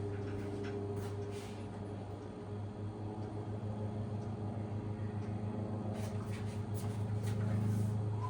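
A steady low machine hum that starts pulsing rapidly and evenly about two and a half seconds in, with a few faint clicks.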